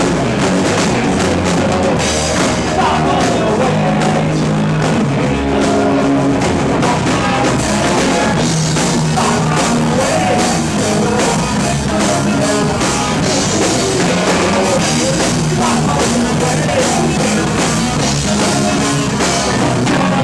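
Rock band playing live: drum kit, electric guitars and bass, with some singing.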